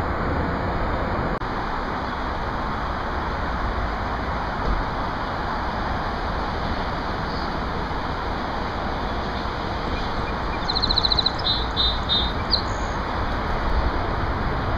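A bird calling about ten seconds in: a quick high trill followed by a few separate high chirps, lasting about two seconds, over a steady rushing background noise.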